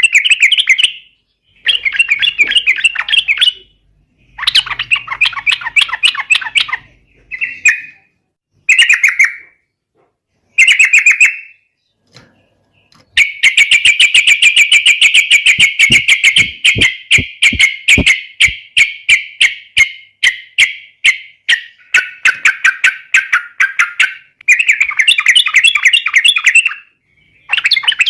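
Yellow-vented bulbul singing loud, bubbly chattering phrases in short bursts with pauses between, then about halfway through a long rapid run of notes lasting around ten seconds: the continuous 'ropel' song of a bird in full voice.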